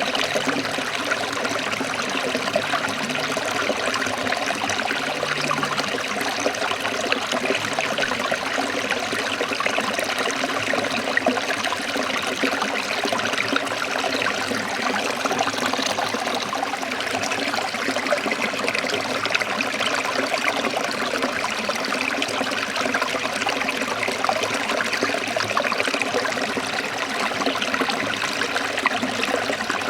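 Stream water trickling and splashing over rocks, a steady, dense babble.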